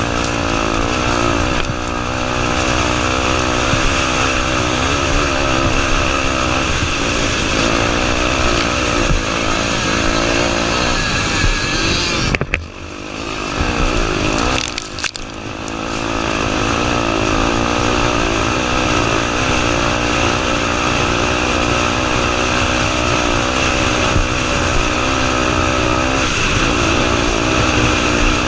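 Honda Tornado 250's single-cylinder four-stroke engine running hard on an enduro motorcycle, its pitch rising and falling with the throttle. It drops away sharply about twelve seconds in, dips again a couple of seconds later, then picks back up and runs on.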